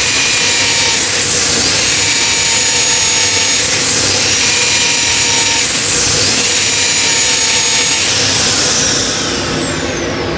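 Vicmarc VL300 wood lathe running, with a steady loud hiss of tool or abrasive working the spinning wood. A high whine falls in pitch over the last two seconds.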